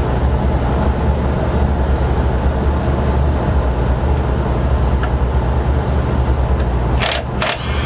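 Steady low mechanical hum with no speech. Two sharp metallic clicks near the end come from hand tools working on the forklift's lift-chain anchors.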